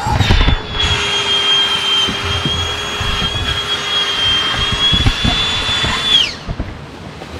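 A small electric motor with a fan, running with a high steady whine over a rush of air for about six seconds, then switched off and winding down in pitch.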